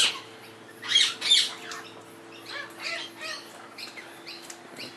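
Parrots squawking: two loud screeching calls about a second in, then softer short chirps, over a faint steady hum.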